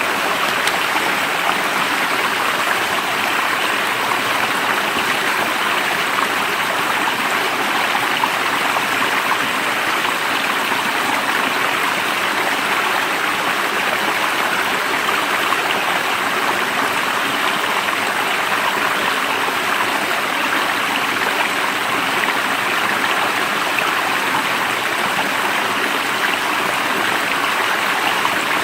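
A stream of water running steadily, an even rushing and burbling.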